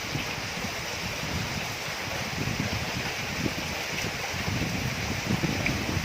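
Storm rain and strong gusting wind: a steady hiss of rain with wind buffeting the microphone in irregular low gusts.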